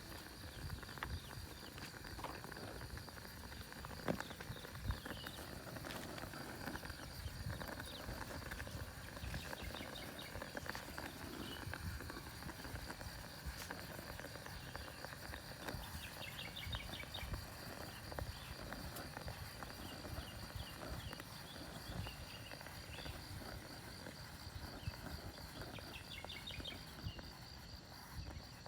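Strong wind buffeting the microphone with an uneven low rumble and knocks, over a steady, evenly pulsing high insect trill. Short bursts of rising chirps come twice, about midway and near the end.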